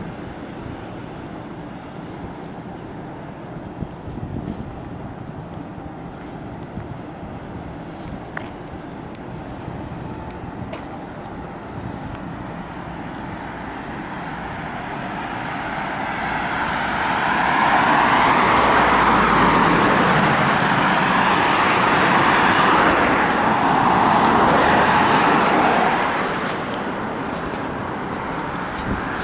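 Steady hum of road traffic, then a vehicle approaches about halfway through, passes close with loud tyre noise for several seconds, and fades near the end.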